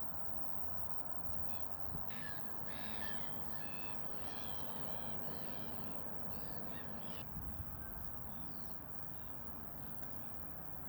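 Wild birds calling: a run of short, repeated pitched calls between about one and seven seconds in, over steady background noise.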